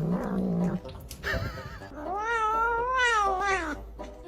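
Domestic cat yowling: a low drawn-out call in the first second, a short call, then one long meow that rises and falls in pitch for nearly two seconds.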